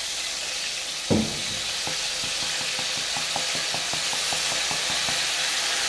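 Blended chile sauce poured into hot oil in a clay cazuela, sizzling with a steady hiss and, from about two seconds in, frequent small crackling pops. A short downward-sliding sound comes about a second in.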